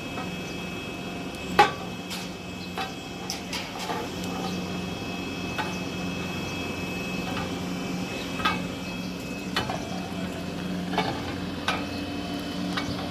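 Stainless steel steam-heated khoya (mawa) making kettle with its motorised stirrer running: a steady machine hum with a thin high tone, and scattered metallic clicks and knocks as the scraper blades stir the milk in the pan. The loudest knock comes about one and a half seconds in.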